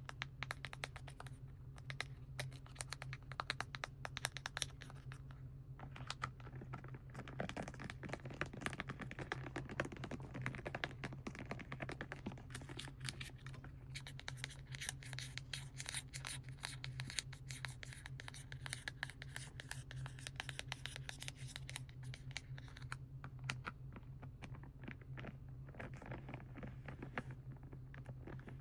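Close-up scratching on the plastic and foil packaging of a set of paints: a dense, continuous run of quick scratches and small taps, over a steady low hum.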